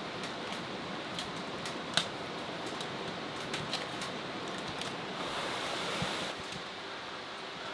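Firewood burning in a wood stove, crackling with sharp pops at irregular intervals over a steady hiss, one louder pop about two seconds in. A brief rushing noise about five seconds in lasts roughly a second.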